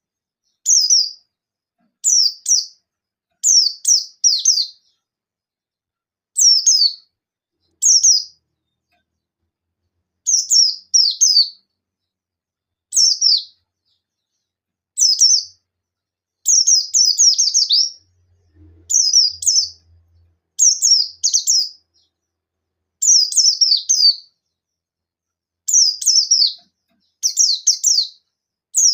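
A pleci buxtoni white-eye sings its high-pitched 'nembak' call in short bursts, one every second or two. Each burst is a quick run of falling notes. It is the call with which it challenges a rival.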